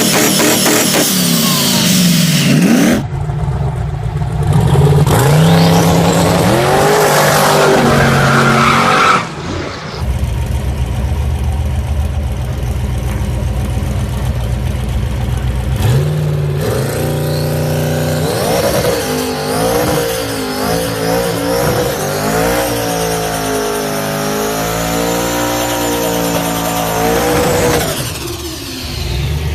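Turbocharged car engines revving hard in several short clips cut one after another: the pitch falls, climbs and wavers as the throttle is worked. One stretch in the middle is a steadier low rumble.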